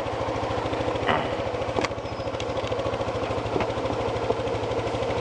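ATV engine running steadily at low speed, with a few light clicks and knocks.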